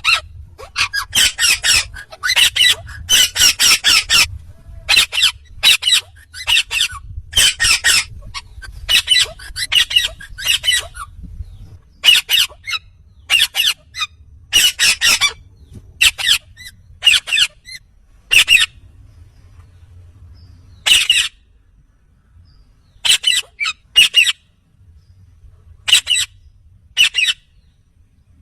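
Indian ringneck parakeet squawking: many short, harsh, high-pitched calls in quick clusters, coming thick at first and then more spaced out with pauses of a second or two.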